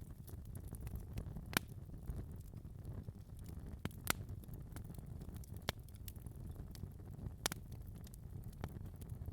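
Wood fire burning in a fireplace: a steady low rumble of flames with irregular sharp crackles and pops, the loudest about one and a half, four and seven and a half seconds in.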